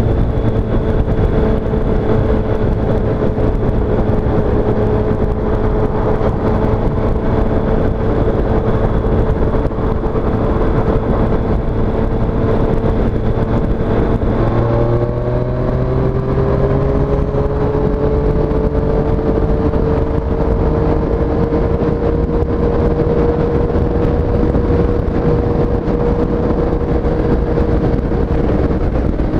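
2017 Triumph Street Triple S's three-cylinder engine running under way at steady revs over a constant rush of noise. About halfway through, a gear change drops the pitch, which then climbs slowly as the bike gathers speed.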